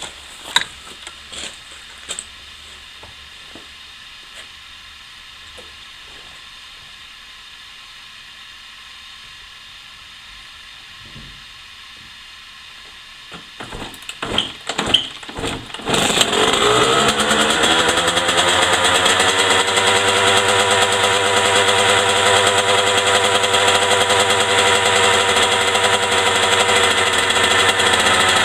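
2000 Honda CR125's single-cylinder two-stroke engine with a Doma aftermarket exhaust: a few short bursts, then it catches a little over halfway in and idles steadily while warming up. The idle pitch settles a few seconds after it catches.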